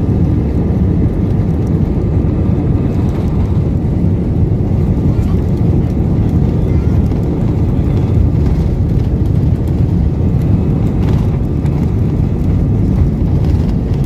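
Airliner cabin noise during the takeoff climb: engines and airflow making a loud, steady low rumble.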